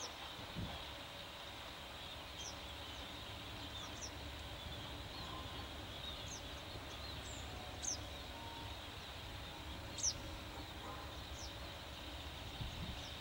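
Short, high, falling chirps of small birds, about seven scattered through, the sharpest about ten seconds in, over a steady high hiss and a low background rumble.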